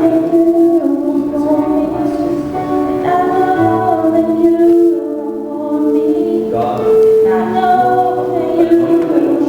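Church worship music: voices singing long, held notes over instrumental backing.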